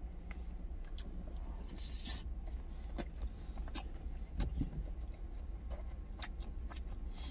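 A man chewing a large mouthful of rice, with scattered light clicks, over a steady low rumble inside a truck cab.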